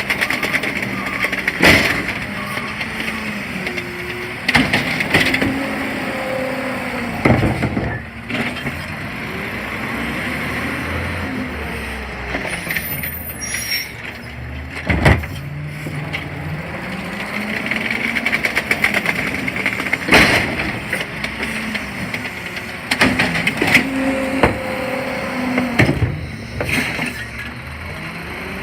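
CNG garbage truck with an automated side-loader arm working, the engine pitch rising and falling again and again as the arm cycles, with repeated bangs.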